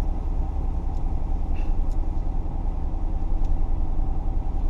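Car running with a steady low rumble and quick, even pulsing.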